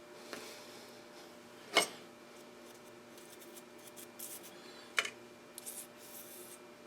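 Metal lathe taking spring passes on a single-point thread, running with a faint steady hum. There are two sharp clicks, one just under two seconds in and one about five seconds in, and short scratchy bursts in the last few seconds.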